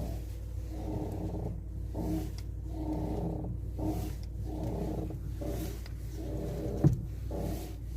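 Lada Vesta's strut bump stops creaking over and over, a little more than one creak a second, over a steady low hum, with one sharp knock about seven seconds in. The creak is the sign of the strut bump stops rubbing.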